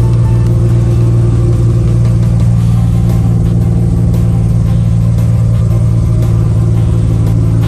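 Citroën SM's Maserati V6 engine idling steadily, a loud even drone with no revving.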